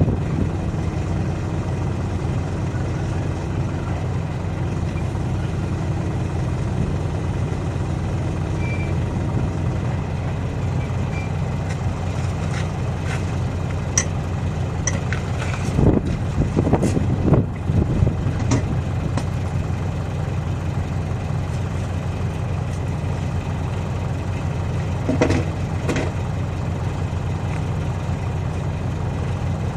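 Large diesel engine idling steadily, with scattered knocks and clanks of tyre-changing work: a cluster in the middle and a pair near the end.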